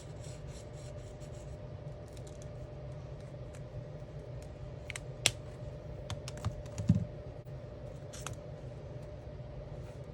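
Alcohol markers at work on a coloring-book page: quick rhythmic scratchy strokes on paper for the first second and a half, then a few sharp clicks and taps with a low knock, the loudest click about five seconds in. A steady low hum runs underneath.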